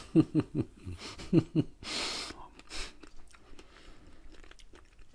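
Close-miked chewing of a fresh strawberry with whipped cream: wet mouth sounds and small clicks, with a few short hums of the voice in the first second and a half and a breathy hiss about two seconds in.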